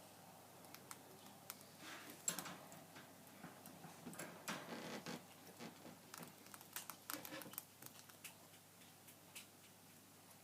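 Pet rats moving about in their cage: faint scattered clicks and scratches, with short bursts of rustling about two seconds in, near the middle, and again a little later.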